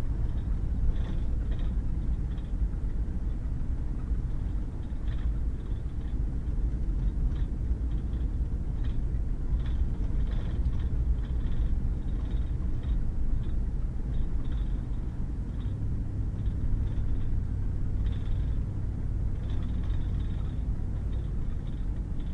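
Pickup truck driving on a wet dirt road: a steady low rumble of engine and tyres. The engine note shifts about two-thirds of the way in, and scattered light ticks come through over the rumble.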